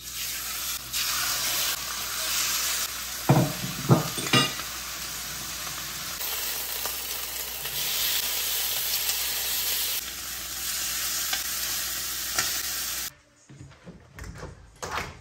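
Marinated chicken pieces sizzling in hot oil in a nonstick frying pan, with a few sharp clacks about three to four seconds in as pieces go into the pan with tongs. Near the end the sizzle cuts off and a few small knocks follow as a window latch is worked open.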